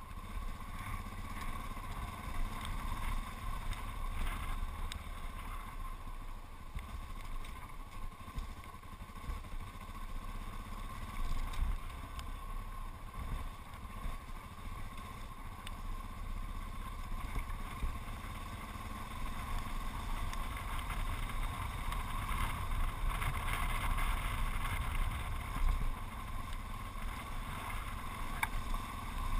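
The single-cylinder engine of a Yamaha XT660Z Ténéré motorcycle running steadily while riding along a gravel track, heard through a camera mounted on the bike, with a low rumble of wind and road. It grows a little louder in the last third.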